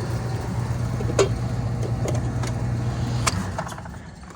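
Rheem air-conditioning condenser running, a steady low hum with fan noise and a few light clicks. About three seconds in the hum cuts off with a click and the sound fades as the fan spins down.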